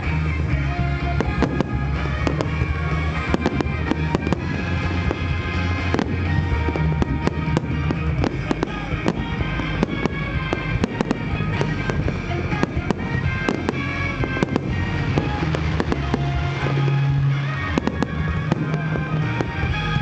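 A fireworks display with rapid, overlapping bangs and crackles, over music with a heavy bass.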